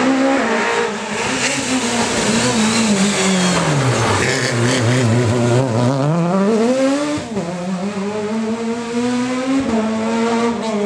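Peugeot 306 Maxi rally car's four-cylinder engine, loud throughout: the revs drop over the first few seconds as the car slows, then climb hard as it accelerates away, with a gear change about seven seconds in and another near the end.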